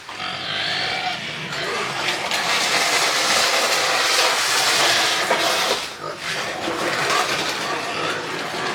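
Piglets squealing, loudest in the middle, with a brief drop about six seconds in before carrying on.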